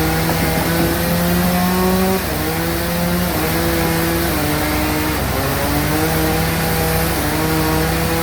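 Sawmill bandsaw and its drive engine running while cutting a log, the engine's pitch stepping up and down as the cut loads the blade.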